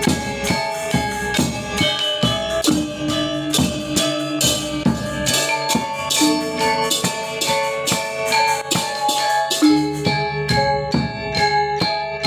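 Balinese gamelan gong ensemble playing: bronze metallophones struck in fast, dense strokes over ringing lower tones that are held for a second or more at a time.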